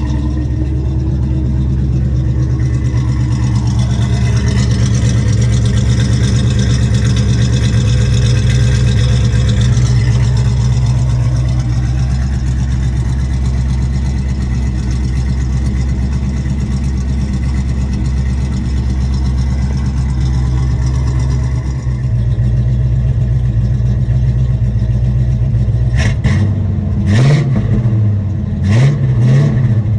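Oldsmobile Cutlass Supreme engine idling steadily through Hedman headers, an X-pipe and Black Widow Venom mufflers dumped out the sides, then revved in several quick blips near the end.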